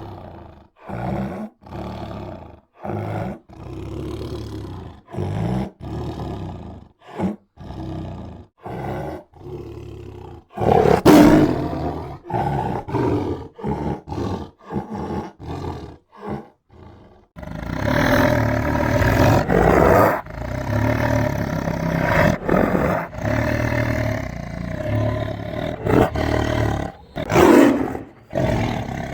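Tiger growling and roaring: a string of short growls with brief pauses between them, a louder roar about eleven seconds in, then from about eighteen seconds a denser, almost unbroken run of roaring with a loud roar near the end.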